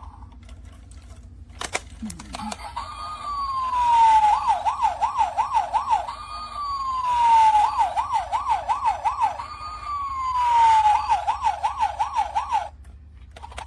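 Toy helicopter's electronic siren through its small speaker, after a click: three cycles of a falling wail, each followed by a quick warble, two alternating siren sounds.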